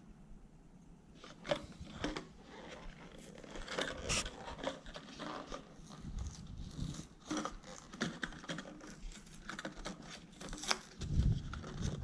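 Plastic lure packaging being handled and opened: irregular crinkling, tearing and scraping with scattered sharp clicks, and a couple of dull thumps near the end.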